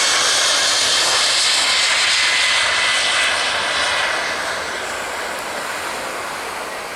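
Airliner passing low overhead: loud engine noise with a faint high whine whose pitch slowly drops, strongest for the first few seconds and then fading as the aircraft moves away.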